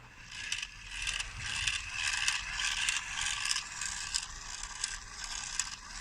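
Plastic pump mechanism of a hand-pumped bubble shooter toy ratcheting and whirring as it is pumped fast, in repeated strokes a few times a second.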